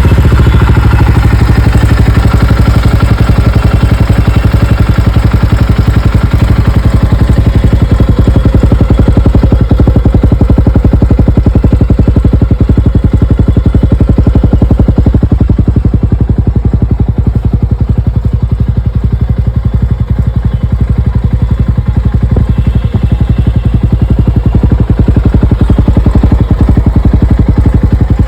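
2024 Jawa 42 FJ's 334 cc single-cylinder engine catching right at the start, then idling steadily through its stock exhaust with a fast, even beat.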